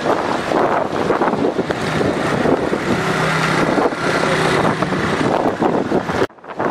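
Strong dust-storm wind gusting and buffeting the microphone in loud, rough waves. A low pitched tone sounds twice in the middle, and the sound cuts out for a moment near the end.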